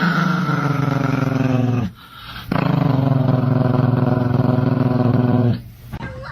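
A dog giving two long, low, drawn-out howls, the second longer, each sagging slightly in pitch.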